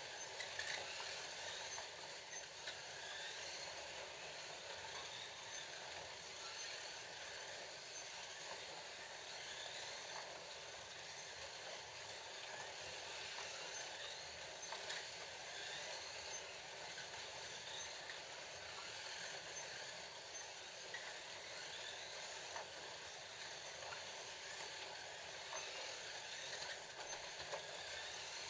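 Scalextric slot cars running laps around the plastic track: a steady whir of small electric motors, with light clicking from the cars on the track.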